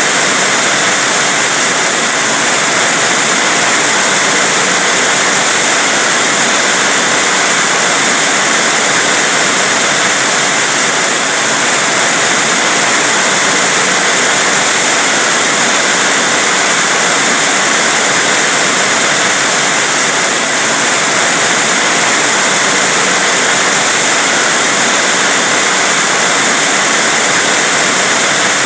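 Heavy rain pouring down in a loud, steady, unbroken hiss, with no single drops or gusts standing out.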